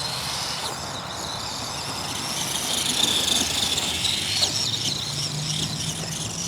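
Arrma Gorgon 1/10 RC monster truck's electric motor and gears whining as it drives, the high whine rising and falling with the throttle.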